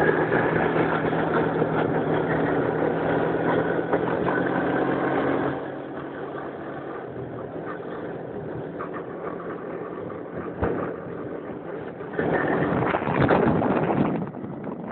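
Quad bike engine running with a steady hum. It drops quieter about five and a half seconds in and grows louder again about twelve seconds in.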